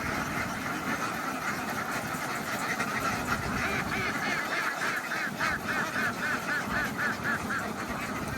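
A flock of farm ducks quacking, many calls overlapping. From about five seconds in, one bird calls in a quick run of repeated quacks, about four a second.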